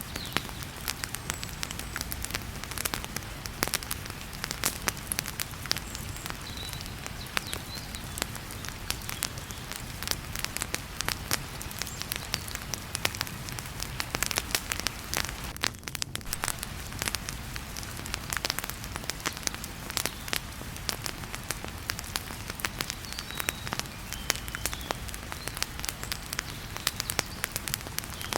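Wood fire crackling with frequent sharp pops over the steady hiss of heavy rain.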